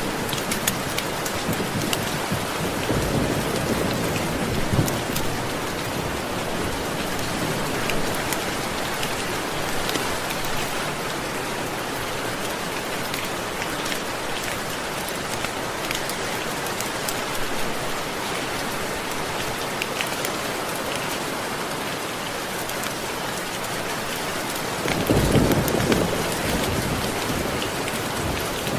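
Steady heavy rain with dense pattering drops, and rolls of thunder: a faint rumble a few seconds in and a louder one near the end.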